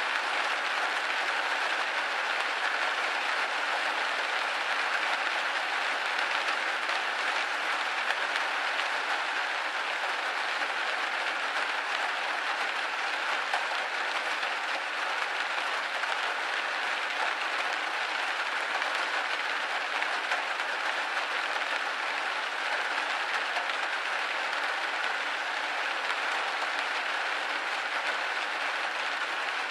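Steady rain pattering on a window pane, a dense even hiss of drops without pauses.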